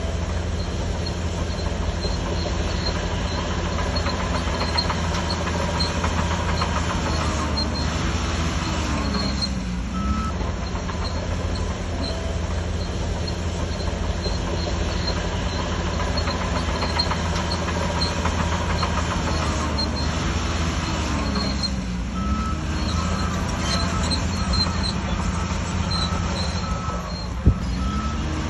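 Shantui DH17C3 crawler bulldozer's diesel engine running steadily under load, with the metallic clatter and squeal of its steel tracks. The engine note dips and recovers twice, about nine and twenty-one seconds in. A sharp click comes near the end.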